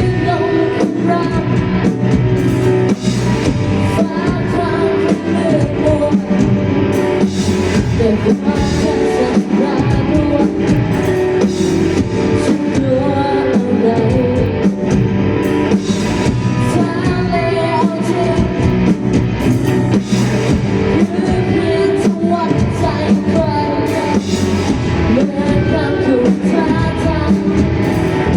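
Live rock band playing a song: a singer over electric guitar and a drum kit keeping a steady beat.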